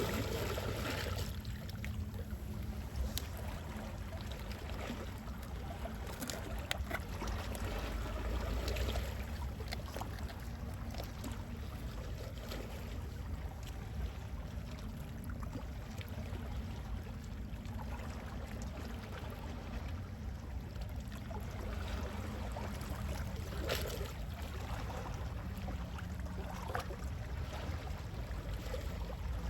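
Gentle sea waves lapping and splashing, with small splashes scattered through a steady wash over a low rumble.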